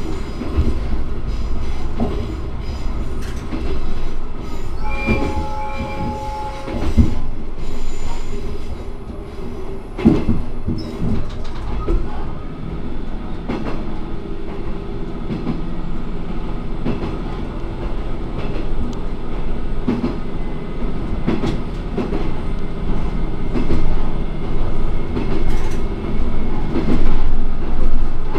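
Diesel railcar running along the track, its engine sounding under the steady rumble of wheels on rail, with irregular clicks and knocks as the wheels cross rail joints. A brief pitched tone sounds about five seconds in.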